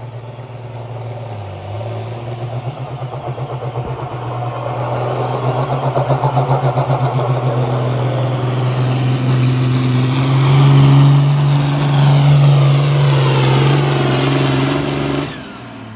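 A pulling tractor's diesel engine running at full throttle down the track on a hook. It grows louder, its pitch climbing a little, and then it cuts off abruptly near the end as the pull stops.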